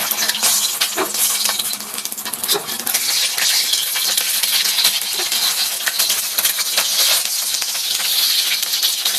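Food sizzling in a pan: a steady crackling hiss with many small clicks, and a few sharper knocks of a utensil against the pan.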